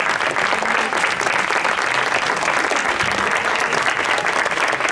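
A crowd applauding, steady dense clapping with some voices faintly underneath.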